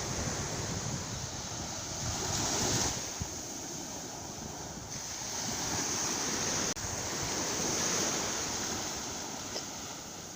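Sea surf washing in and out, swelling and easing in waves, with wind buffeting the microphone.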